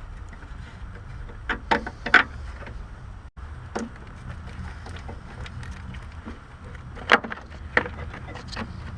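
Sharp clicks and knocks of parts and tools being handled during car disassembly, in small clusters about a second and a half in, near four seconds, and again around seven to eight seconds, over a low steady rumble.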